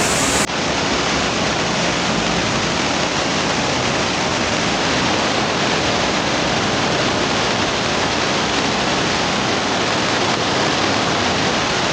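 Chandrabhaga river in violent flow: a steady, unbroken rush of fast white water. There is a short dip in level about half a second in, after which the rush goes on unchanged.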